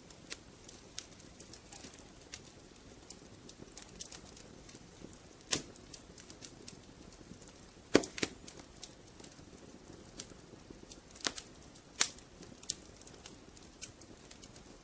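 Wood fire crackling in a fireplace: a soft steady hiss under irregular sharp pops and snaps, with a few louder pops about five, eight, eleven and twelve seconds in.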